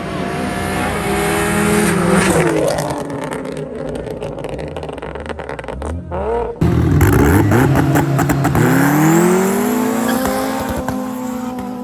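Cars at full throttle in a drag race, their engines revving and rising in pitch through gear changes, then falling away as they pass. About six and a half seconds in, the sound cuts abruptly to a louder engine that climbs and falls again.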